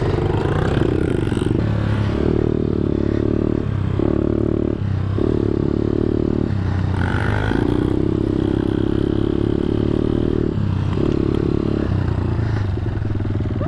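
ThumpStar pit bike's single-cylinder engine running on the throttle in mud, its note holding steady and then dipping briefly several times as the throttle is rolled off and back on.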